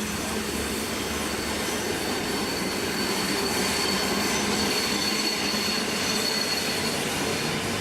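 Train running past on the rails, a steady rumble with a thin, high wheel squeal from about three to seven seconds in.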